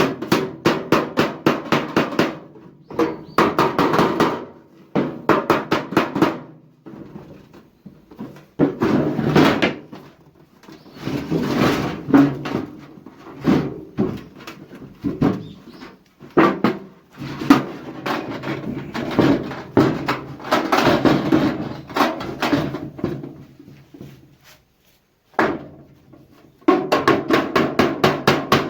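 Hammering on a sheet-metal tin can in quick runs of sharp, ringing strikes, several a second, broken by short pauses.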